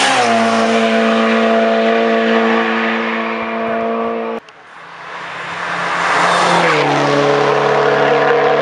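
Two hillclimb race cars going past at speed, one after the other. The first engine's note drops in pitch as it passes at the start and holds steady until it cuts off suddenly about four seconds in; the second grows louder and drops in pitch as it passes about seven seconds in.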